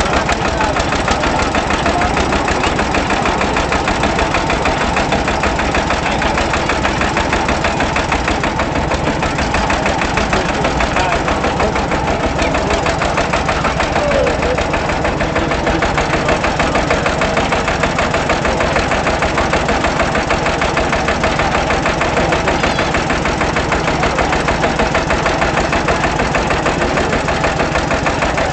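Svoboda DK15 vintage tractor engine running steadily with an even, rapid firing beat.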